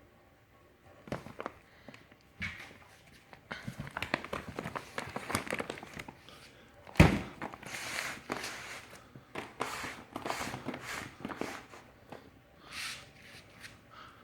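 Handling of cardboard firework cakes and their packaging: scattered rustling, scraping and light knocks, with one loud thump about seven seconds in as a box is set down.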